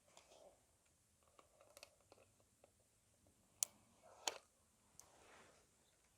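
Faint handling of a coffee machine's plastic water tank: small plastic clicks and rustles, with two sharper clicks about three and a half and four and a quarter seconds in.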